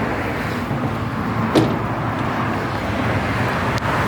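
Steady traffic noise from a busy road, with one short knock about a second and a half in.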